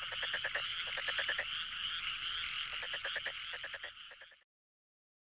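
A chorus of frogs calling, with overlapping trains of rapid pulsed croaks and short rising chirps. It stops abruptly about four and a half seconds in.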